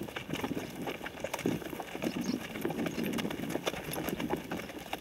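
Horses' hooves clopping steadily on a track as they are ridden along.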